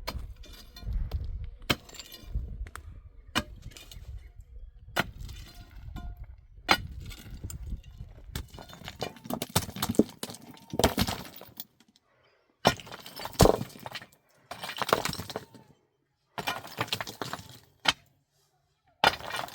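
A series of sharp clinks and knocks with short noisy stretches between them, some clicks ringing briefly; the sound stops abruptly a few times in the second half.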